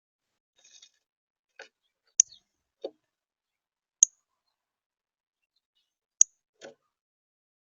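A few sharp high clicks, about two seconds apart, with softer, duller taps between them against a silent background.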